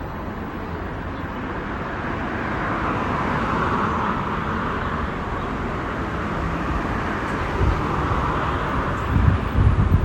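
Road traffic noise: a passing vehicle's tyre and engine noise swells and fades, then swells again. Near the end, wind buffets the microphone in low gusts.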